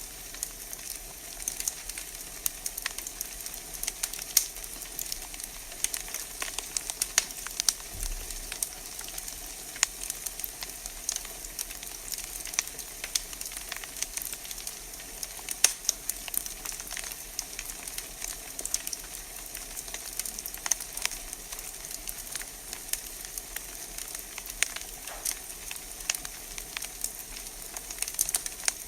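Wood fire burning in a fireplace, crackling steadily with irregular sharp pops and snaps over a soft hiss.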